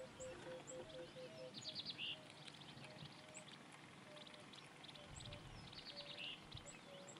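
Faint wild birdsong: scattered short high chirps and two rapid rattling trills, with a run of short low repeated notes in the first two seconds.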